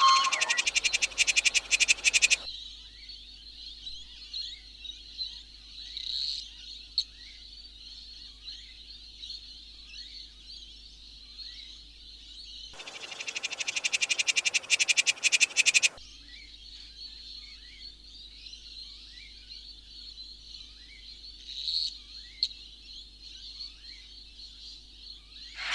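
Outdoor animal chorus: a steady high-pitched chorus with many short falling chirps, broken twice by a loud, rapid pulsing call, once at the start and again about halfway through, the second one swelling in loudness.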